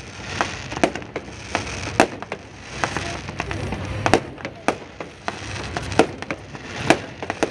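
Fireworks going off in a rapid, irregular run of sharp bangs and cracks, several a second, with a few louder reports standing out.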